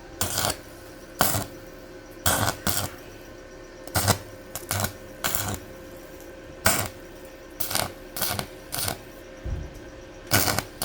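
Sharp metallic clinks and taps at an irregular pace, roughly one a second and sometimes two close together, as from metal parts or hand tools being handled and set down during mechanical repair work.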